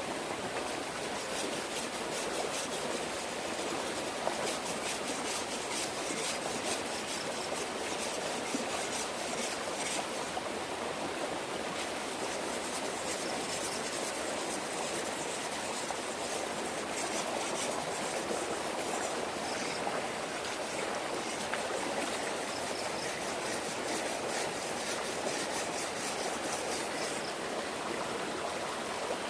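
Steady rushing of running water, like a small stream, with a fine rapid high scratching over most of it.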